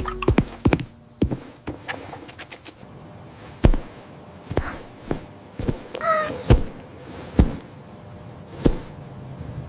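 A series of sharp thuds and knocks at irregular intervals, about a dozen of them, with a short squeaky vocal sound about six seconds in.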